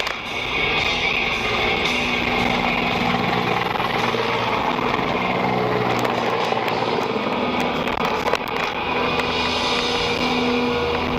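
Steady car driving noise, engine and road, with music playing along with it.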